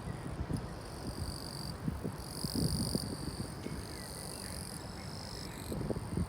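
Wind buffeting the microphone in uneven low gusts, with a faint high-pitched steady trill above it that starts and stops every second or so.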